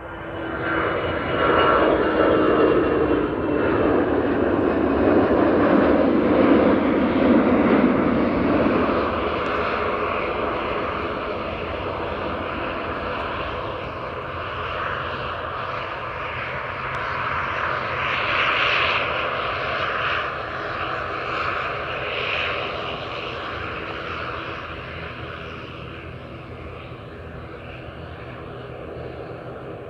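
Airliner engines passing close: a loud roar that swells within the first couple of seconds, then slowly fades away, with a steady whine running through it.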